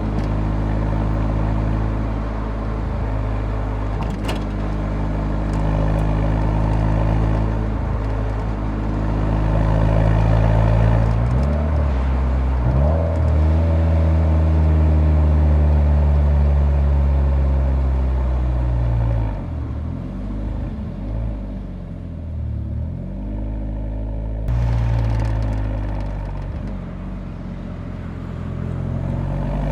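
Nissan 180SX exhaust recorded at the muffler while driving: the engine runs at a steady cruise, shifts pitch about twelve seconds in, dips and wavers for a few seconds past the middle, then rises as it accelerates near the end.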